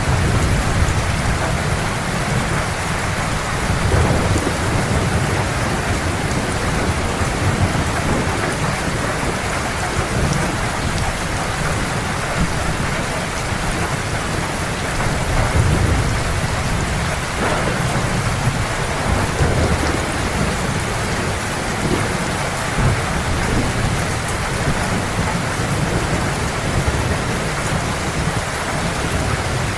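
Heavy rain falling steadily, with deep rolling thunder rumbling underneath that swells now and then.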